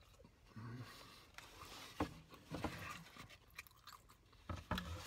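A person chewing a mouthful of pastrami sandwich and fries, with soft handling noises and a few sharp clicks from the foam takeout tray, one about two seconds in and a couple near the end.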